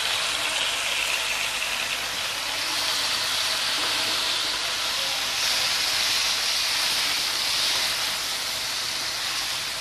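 Marinated chicken sizzling as it hits hot oil in a nonstick frying pan: a steady frying hiss.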